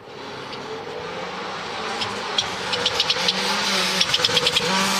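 Car engine sound, running steadily and growing louder, with a quick run of sharp ticks from about two to four and a half seconds in.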